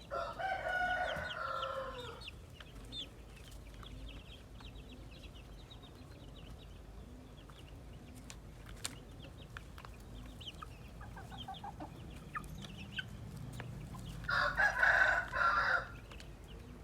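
Roosters crowing: one crow during the first two seconds and a louder one near the end, with faint clucks and chirps from the flock in between.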